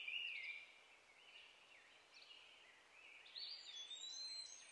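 Faint birdsong: scattered chirps and short whistled calls, with one falling call at the start and a busier run of calls about three to four and a half seconds in.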